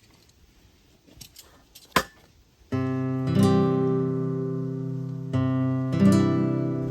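A few faint sharp clicks, then acoustic guitar music starting almost three seconds in: strummed chords, struck again about every second or two.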